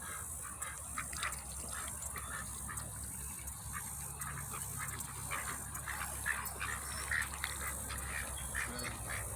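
Ducks and geese softly and irregularly quacking and chattering while grazing, over a steady hiss of rain.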